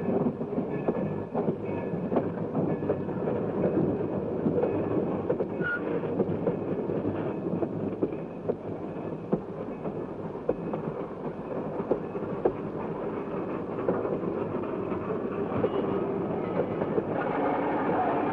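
Freight train running: a steady rumble with the rapid clatter of wheels over rail joints, from an early sound-film soundtrack. It cuts off abruptly near the end.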